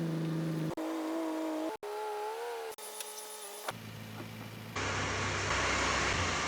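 A series of short, steady pitched tones, one wavering in pitch, cut off abruptly. About halfway through, a vehicle engine starts to be heard running, a noisy sound with a low hum that grows louder.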